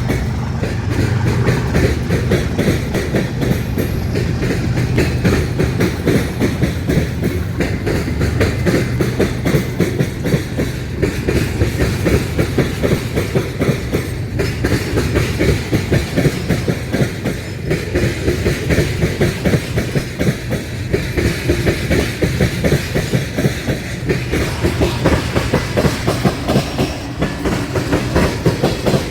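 A train rolling past, its wheels clattering rapidly and continuously over the rail joints of a diamond crossing, over a low rumble. A steady low engine hum is heard in the first few seconds, then fades.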